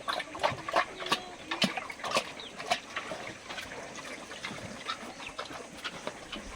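Chickens clucking faintly amid a run of sharp, irregular clicks and knocks, loudest and most frequent in the first three seconds.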